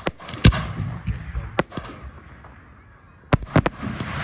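Aerial fireworks going off: a series of sharp bangs, the loudest about half a second in with a low rumble after it, then two quick bangs near the end, followed by a spreading hiss.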